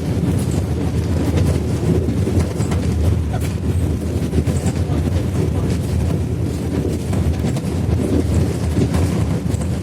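Mercedes-Benz OH-1420/51 bus engine pulling hard with an open, muffler-free exhaust, a steady low drone, with light rattles and clicks throughout.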